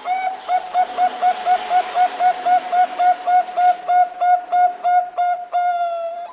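Zebra dove (Thai-bred perkutut bangkok) calling: a long run of short pitched coos, about four a second, quickening near the end and finishing on one longer held note.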